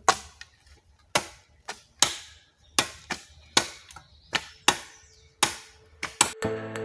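A hand tool chopping into the ground, about a dozen sharp strikes at an uneven pace. Background music begins near the end.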